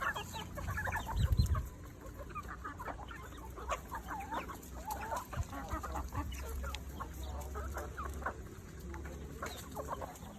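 A flock of chickens clucking, many short calls overlapping throughout, over a steady low hum. About a second in there is a brief, louder low rumble.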